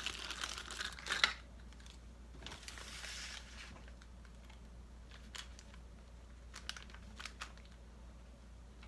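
Paper bag rustling as it is handled for about the first second, then quieter handling with a few light clicks and taps.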